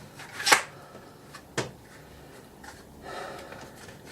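Two sharp clicks, about a second apart, as a new air filter is pushed and worked into its filter housing, the first the louder; a short breathy sound follows near the end.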